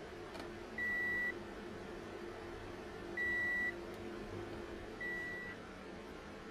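Three short electronic beeps of one steady high pitch, each about half a second long, about a second in, past the middle and near five seconds, the last a little softer, over a faint steady hum.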